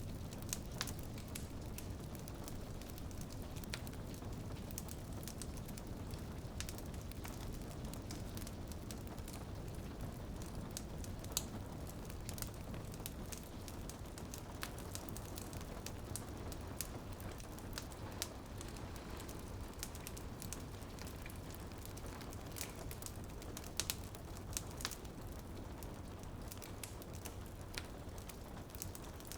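Wood fire crackling and popping with scattered sharp snaps over a steady low rumble, mixed with rain pattering on a window.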